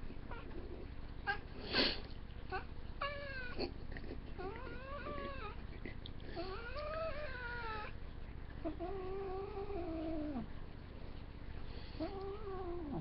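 Domestic cat meowing repeatedly in long, drawn-out calls that rise and fall in pitch, about five of them. Near the start there is a short, loud noisy burst.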